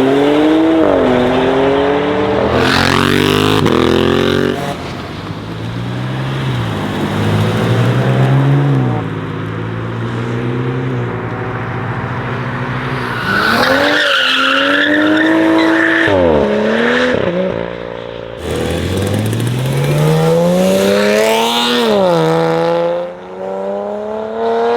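Performance car engines accelerating hard several times in succession, the pitch climbing through each gear and dropping at the shifts.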